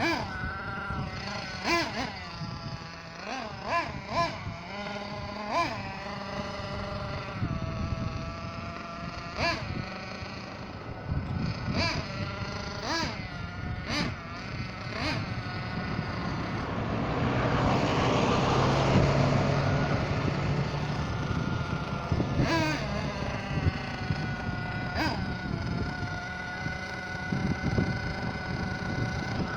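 Small nitro engine of an Ansmann Virus 21 RC buggy running, its high-pitched note rising and falling again and again as it is throttled up and down. It grows louder and rougher for a few seconds just past the middle.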